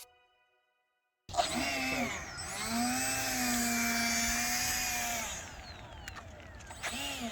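Electric ducted-fan motor of an E-flite Habu STS RC jet whining, starting suddenly about a second in, its pitch wavering with the throttle. It eases off about four seconds in and rises briefly again near the end.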